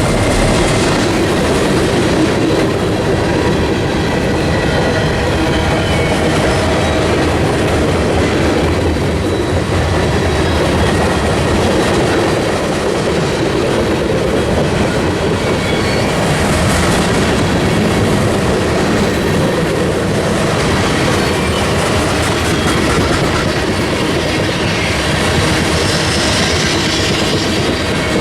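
Train cars rolling past, a steady loud rush of wheels on rail with the clacking of wheels over rail joints.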